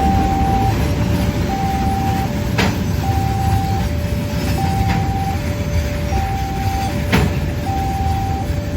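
Railway level-crossing warning alarm sounding an alternating two-note tone, high then low, over the loud rumble of a passing train, with three sharp clanks.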